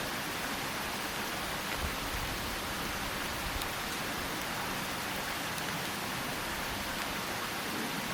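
Steady, even hiss of falling water, with a few faint ticks.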